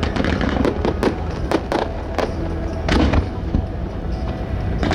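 Fireworks going off in a run of sharp, irregularly spaced bangs over a steady low rumble, with music playing underneath.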